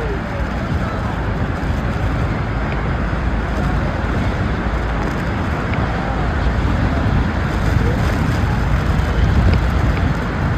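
Steady loud rushing noise of wind and water aboard a boat, with wind buffeting the microphone.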